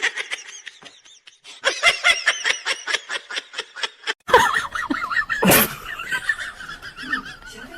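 A person laughing in quick, high-pitched repeated bursts, cut off abruptly about four seconds in. A loud, sharp noise follows about a second later.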